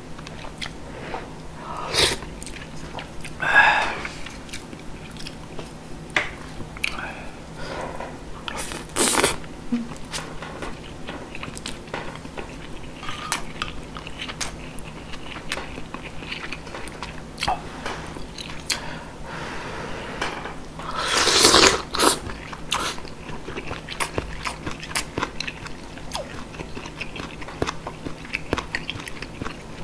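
Close-miked chewing and biting of spicy beef soup (yukgaejang) with rice: soft wet mouth sounds and clicks throughout, with one louder sound lasting about a second about two-thirds of the way in.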